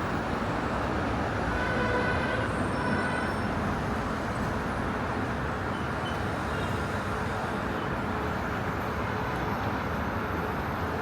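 Steady rumble of a moving vehicle: an even running noise with no breaks, with a few faint tones about two seconds in.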